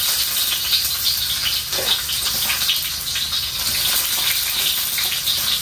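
Sliced shallots, garlic, ginger and bird's-eye chillies sizzling in hot oil in a pan with a loud, steady hiss. This is the first stage of the sauté, the aromatics just tipped into the hot oil.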